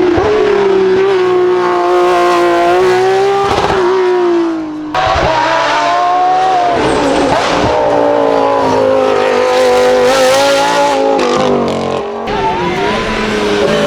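Hill-climb race car engine running hard at high revs, its pitch wavering as it drives, with short lifts off the throttle about five seconds in and again about twelve seconds in.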